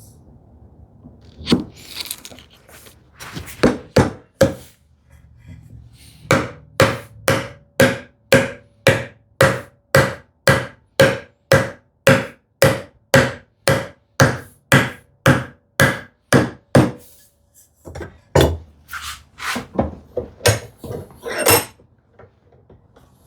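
Chisel being driven into wood by mallet blows, as when chopping out the waste of half-blind dovetails. A few scattered strikes come first, then a long, steady run of about two blows a second with a slight ring, then more irregular strikes near the end.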